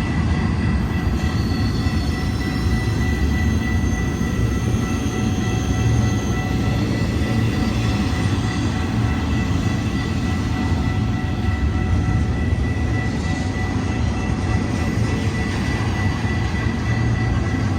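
Intermodal freight train rolling past, with a steady low rumble of wheels on rail and a thin, steady high-pitched ring over it.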